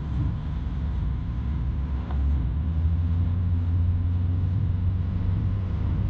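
Motor vehicle driving, a steady low rumble of engine and road noise.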